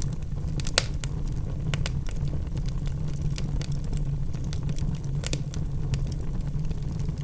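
Wood fire of burning logs in a fireplace crackling: a steady low rumble with scattered sharp pops, the loudest about a second in and again past five seconds in.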